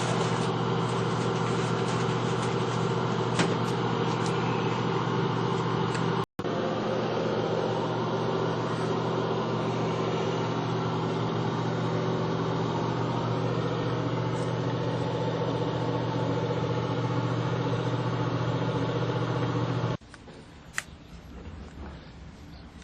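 A steady motor hum that breaks off for an instant about six seconds in, then stops abruptly about 20 seconds in.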